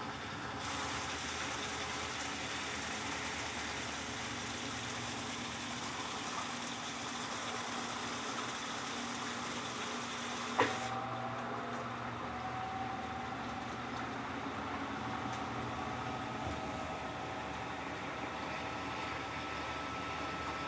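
Electrolux LTC15 top-loading washing machine running a wash cycle: water rushes and sprays into the drum with a steady hiss for about ten seconds, which stops with a sharp click halfway through, leaving the machine's low motor hum.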